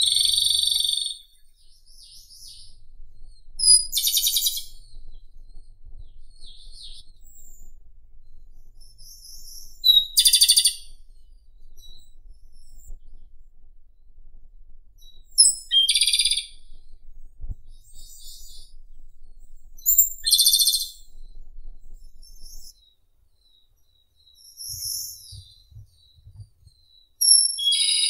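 Japanese robin singing: short, high-pitched phrases about a second long, each a fast trill, repeated every four to six seconds, about six times.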